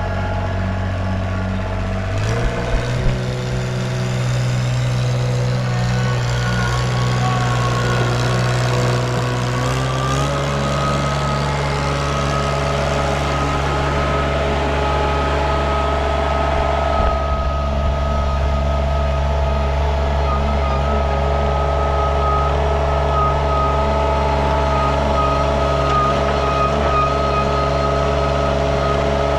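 KRT ST900HD mini skid steer's engine running steadily, its pitch stepping up about two seconds in and again about ten seconds in as it is throttled up, with a few knocks early on.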